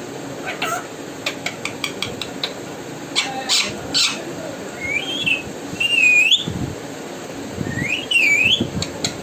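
Pet parrot making a run of short sharp clicks, then two high whistled calls that glide up and down, one about five seconds in and one about eight seconds in.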